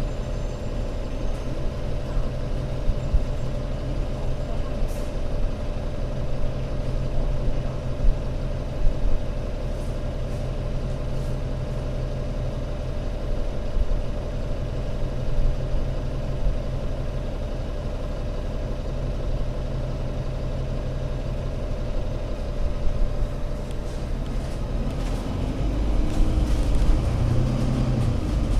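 Diesel engine of an ADL Enviro500 MMC Euro 6 double-decker bus running steadily, a constant whine over its low drone. Near the end the pitch starts to rise and fall as the engine speed changes.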